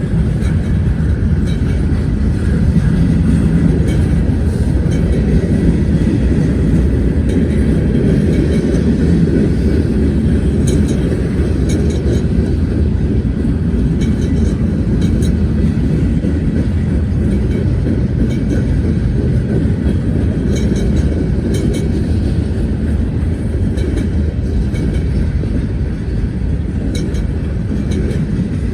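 BNSF freight train rolling past: a loud, steady low rumble of its wheels on the rails, with scattered faint clicks.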